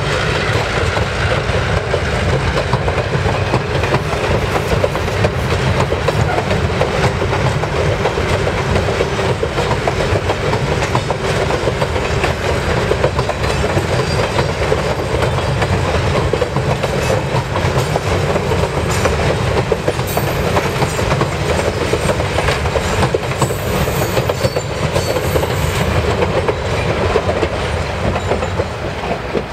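Passenger coaches and a caboose rolling past over a wooden pile trestle: a steady rumble with the rapid clickety-clack of wheels over the rail joints. It eases off near the end as the last caboose goes by.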